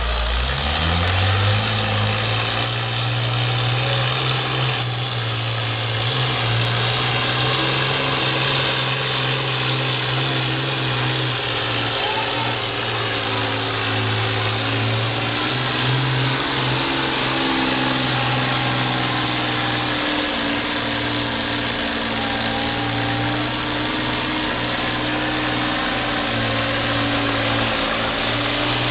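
A vehicle engine revs up over the first second or two, then runs steadily at constant speed.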